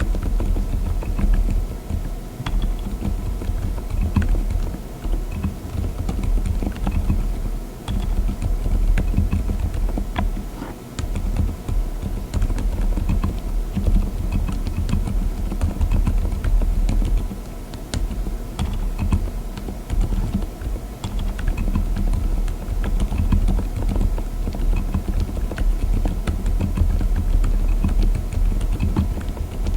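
Continuous typing on a mechanical keyboard with Lime silent tactile switches (35 gf): a steady stream of dull, low keystrokes with only faint click at the top.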